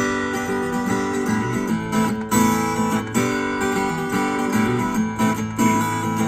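Instrumental break of a song: acoustic guitar strumming chords, with no singing.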